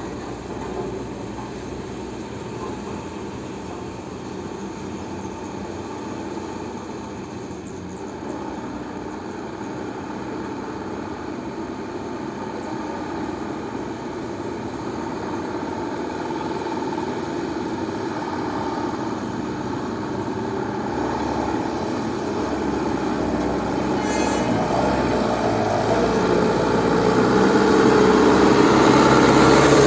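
Heavy diesel engine running steadily and growing louder throughout, loudest near the end.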